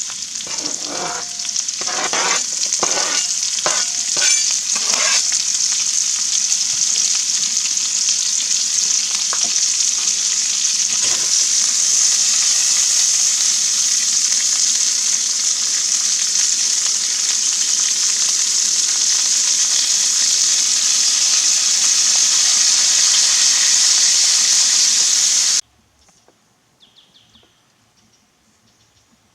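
Food sizzling steadily in a frying pan, with a utensil stirring and scraping the pan about once a second for the first few seconds. The sizzle cuts off suddenly near the end, leaving quiet with a few faint bird chirps.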